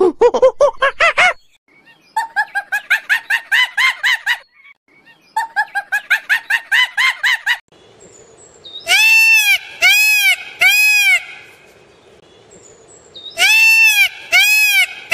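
Rapid runs of short, repeated animal calls, then a male Indian peafowl (peacock) calling loudly: three calls in quick succession, and about two seconds later three more.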